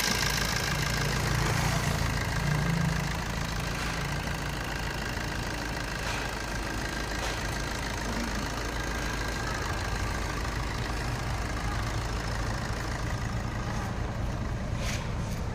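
Maruti Suzuki Swift engine idling steadily during an engine carbon cleaning, a little higher and louder for the first three seconds before settling.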